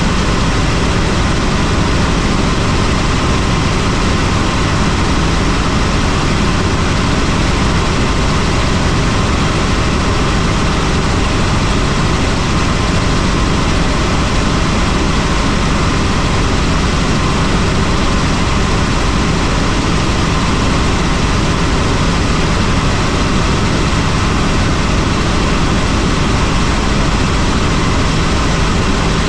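Helicopter in flight: steady, loud engine and rotor noise that does not change.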